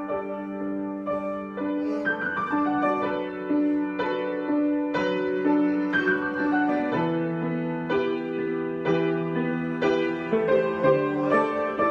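Slow, improvised solo piano: sustained chords with a melody over them, a new note or chord struck about once a second.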